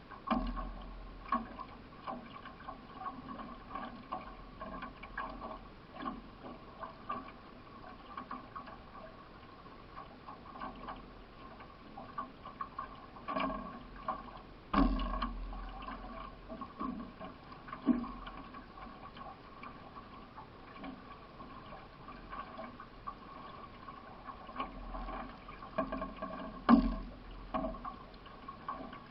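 Racing canoe paddle strokes in the water, with splashing and short knocks between strokes, a few louder than the rest, the loudest near the end.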